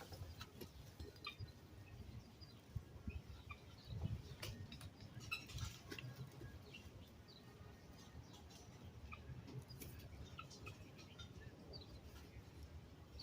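Faint, scattered short bird chirps over a low steady background rumble, with a few soft clicks.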